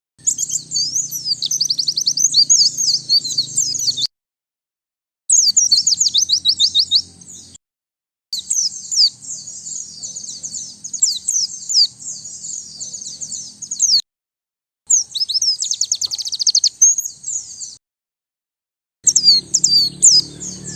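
White-eye (pleci) singing in five bouts of high, fast twittering with rapid trilled runs. Each bout is cut off by dead silence, since the recording is cleaned of background noise.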